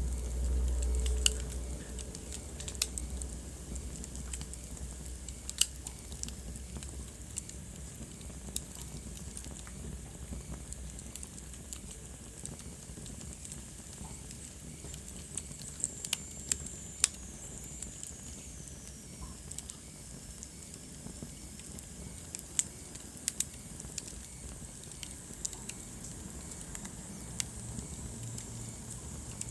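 Wood fire burning in a fireplace: steady low flame rumble with irregular sharp crackles and pops from the burning logs. The rumble is louder for the first second or so, and a faint high whistle slides downward about halfway through.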